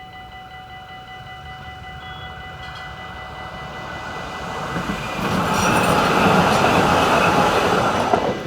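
Train passing over a level crossing: the rush and rumble of wheels on the rails builds from about halfway through and is loudest near the end, then cuts off abruptly. Steady high tones sound underneath the whole time.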